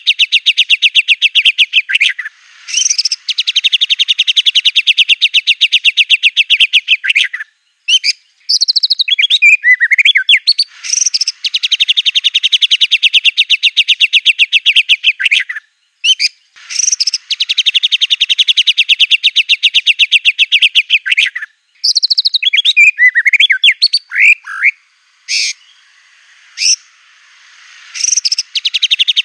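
White-rumped shama (murai batu) singing loudly: long, very rapid trills lasting several seconds each, broken twice by short bursts of varied whistled phrases. It is the mimicked fill-in song of a trained bird.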